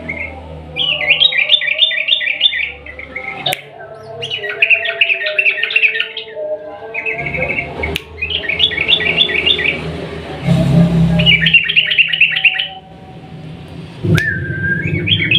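Yellow-vented bulbul (trucukan) singing its long, fast rolling song: repeated phrases of rapid, bubbling notes, each phrase lasting one to two seconds with short pauses between. A low hum sits underneath, and a few sharp clicks come through.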